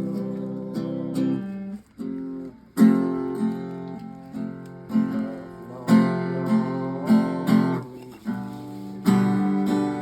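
Background music of strummed acoustic guitar chords at a steady rhythm, with a brief break about two seconds in.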